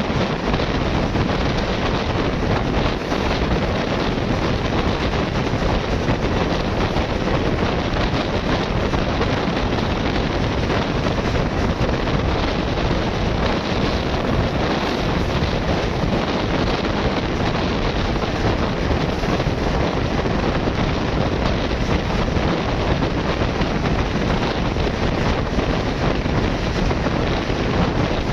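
Steady rushing roar of a fast-moving passenger train, mixed with wind buffeting the microphone.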